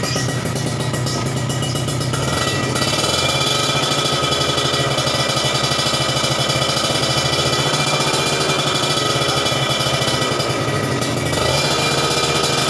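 Kawasaki Ninja two-stroke motorcycle engine running through an aftermarket stainless racing exhaust, getting louder about two seconds in and changing pitch briefly near the end.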